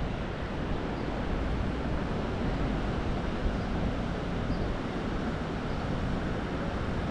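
Steady wind and road noise while riding a motorcycle, the air rushing over the microphone in an even roar with no clear engine note.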